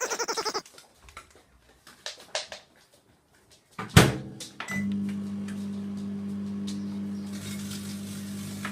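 A few light clicks, then a microwave oven door shuts with a sharp clunk about four seconds in. Under a second later the oven starts and runs with a steady hum.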